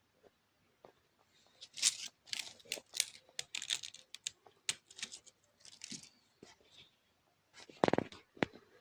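Irregular dry crackling and crinkling from paper towel and dried flowers, a quick run of sharp clicks, then one louder thump near the end.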